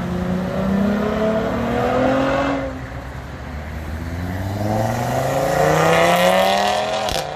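A car accelerating hard away: the engine note climbs for about two and a half seconds, drops at a gear change, then climbs again for about four seconds before cutting off.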